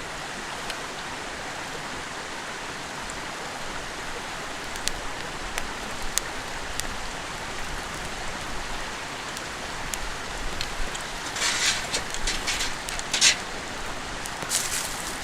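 Steady rushing of a clear stream. Scattered sharp clicks are heard, and past the middle there are a few seconds of close, crackling clatter.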